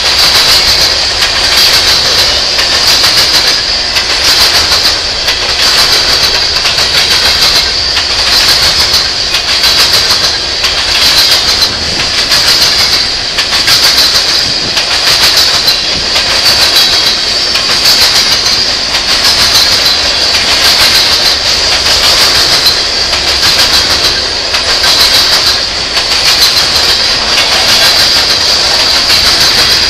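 Loaded freight train of covered hopper cars rolling past at close range, wheels clacking over rail joints in a regular rhythm of about one clack a second, over a steady high-pitched hiss.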